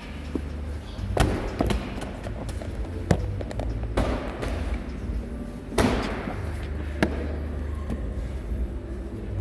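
Irregular heavy thuds and knocks, about half a dozen of them, from workout equipment or bodies landing on a gym floor, over a steady low hum.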